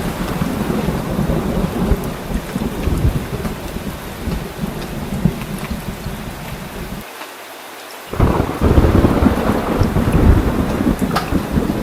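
Heavy rain with rolling thunder rumbling under it. About seven seconds in the low rumble briefly drops away, then the thunder comes back louder.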